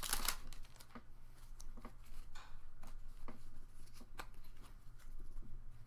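Pokémon trading cards being handled and flicked through one by one, with soft scattered clicks and slides of card on card. It opens with a brief crinkle of the foil booster pack wrapper.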